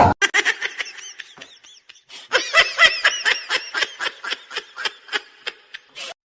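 High-pitched laughter in quick repeated bursts, about four or five a second, loudest in the middle and tailing off near the end.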